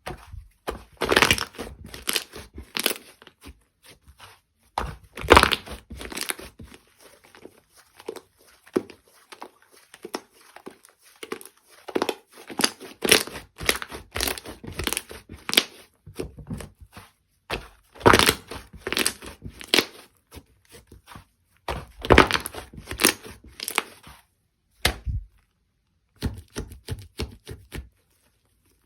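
Slime being squished, stretched and poked by hand, giving irregular crackly, sticky popping and clicking sounds, with short pauses near the end.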